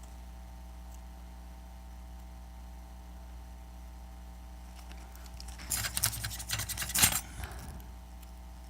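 Small hard tools and parts being handled on a work surface: a cluster of clicks and rattles lasting about two seconds, starting a little past halfway, over a steady low hum.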